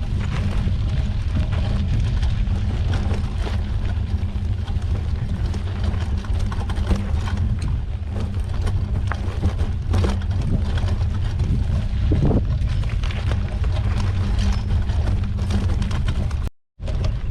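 Mountain bike ridden along a dirt trail: a steady low rumble of wind and riding noise on the microphone, with scattered clicks and rattles from the bike and the trail surface. The sound cuts out for a moment near the end.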